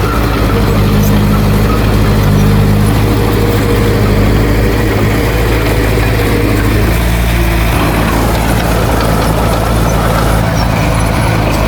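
Heavy diesel engine of earthmoving equipment running steadily, its note shifting slightly about halfway through.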